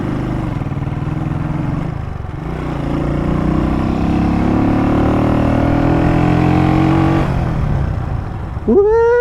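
Small 1990s motorcycle engine running under way, its pitch climbing steadily as it accelerates through the middle, then dropping off about seven seconds in. A short shout comes near the end.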